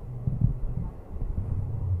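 Low rumble of a running passenger train, with a sharper knock about half a second in.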